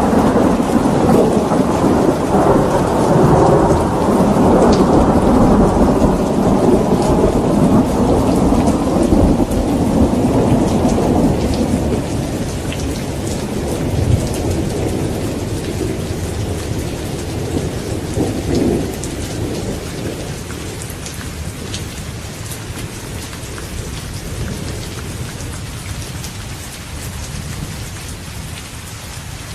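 Steady rain with a long rolling rumble of thunder that is loudest in the first few seconds, swells again briefly about halfway through, and slowly dies away toward the end.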